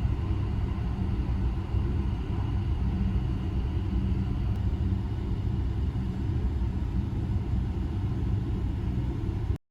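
Steady low rumble of the Sunrise Izumo sleeper train (285 series) running at speed, with no distinct rail clicks. Cuts off suddenly near the end.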